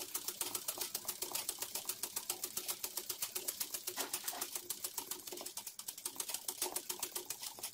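Domestic sewing machine stitching at a steady speed, its needle mechanism ticking rapidly and evenly as it sews a satin-stitch embroidery border.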